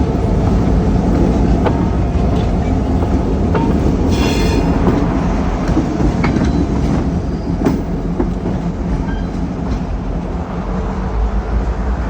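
Freight train rolling past with a steady low rumble and scattered clicks from the wheels on the rail joints. About four seconds in there is a brief high-pitched wheel squeal.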